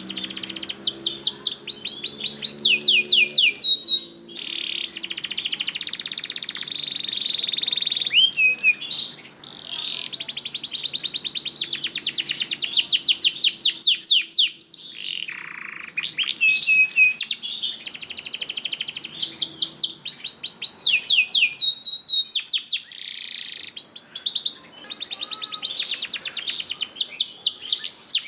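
Domestic canary in full song: long phrases of fast repeated trills, each a run of quick high notes sweeping down, rolling from one tour into the next with short breaks between phrases.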